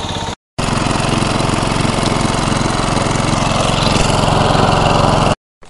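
MTD riding lawn mower's engine running steadily through its new muffler, loud, getting slightly louder toward the end.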